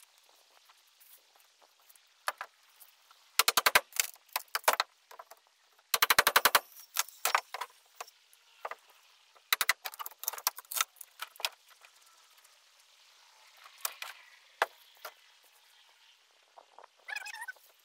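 Two short bursts of rapid, evenly spaced knocks, a few seconds apart, with scattered single knocks and clicks between. This is tool or impact work on the boat hull.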